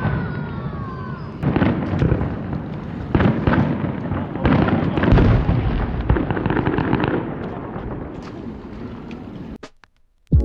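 Aerial fireworks bursting: a run of booms, each with a rumbling decay, and a whistle falling in pitch during the first second. The sound fades and cuts off shortly before the end.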